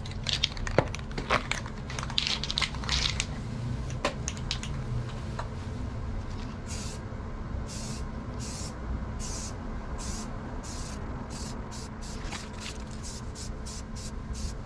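A few clicks and knocks, then bonding primer sprayed in short hissing passes that come faster toward the end.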